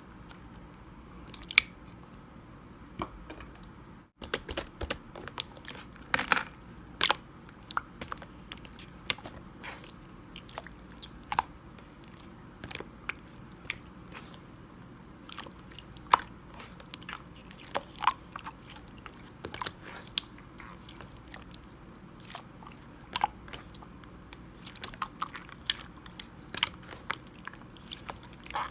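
Clear slime being squeezed and poked by hand, making irregular sharp clicks and pops.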